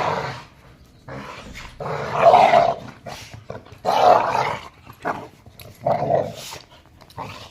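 Pit bull-type puppy growling in play, in about four rough bursts spaced a couple of seconds apart.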